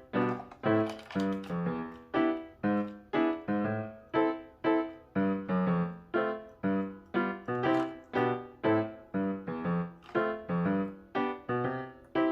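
Background piano music: a light melody of plucked-sounding notes, about two to the second, each fading quickly.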